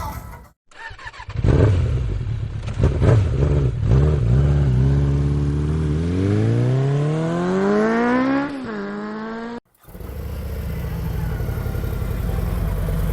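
Motorcycle engine blipped a few times, then accelerating with a steadily rising pitch that drops sharply at a gear change; after a cut, a steady engine note.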